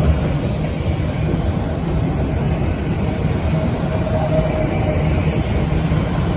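BNSF freight train rolling past, a steady loud rumble of locomotive and wheels on rail, with a faint high ring that comes and goes.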